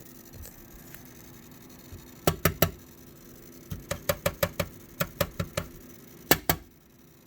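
Sharp clicks or knocks in quick groups: three, then about ten in a row at roughly five a second, then two more, over a low steady hum that stops near the end.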